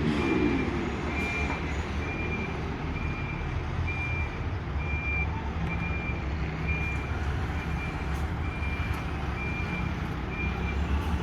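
Truck's reverse alarm beeping, a single high tone repeating evenly about one and a half times a second, over the low, steady running of the truck's engine as it manoeuvres.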